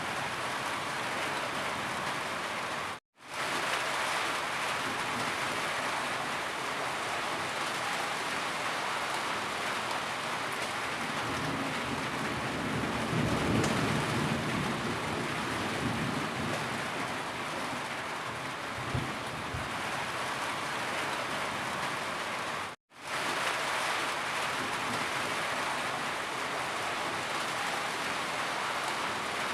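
Steady rain falling, a dense even hiss. It cuts out for an instant twice, about three seconds in and again near twenty-three seconds.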